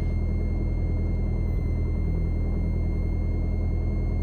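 A 1984 Mooney M20J's four-cylinder Lycoming engine and propeller running steadily at low power, heard from inside the cockpit as an even low drone.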